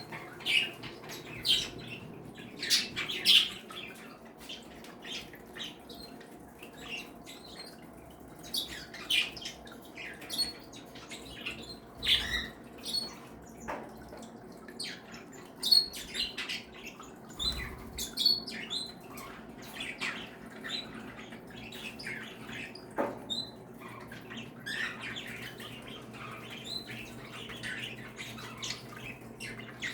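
Mixed flock of caged pet birds, small parrots such as budgies, cockatiels and Bourke's parakeets together with canaries and java sparrows, chirping and squawking in many short, overlapping calls. A steady low hum runs underneath.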